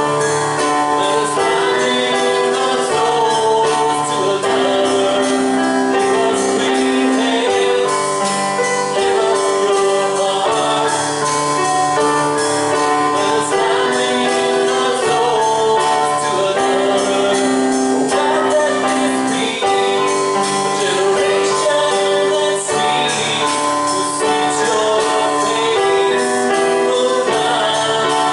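Church worship music: held chords changing every couple of seconds, with singing and a light steady beat.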